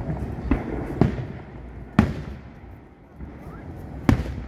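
Aerial fireworks shells bursting in a display: four sharp booms at uneven spacing, each trailing off in a low rumble, the first one softer than the rest.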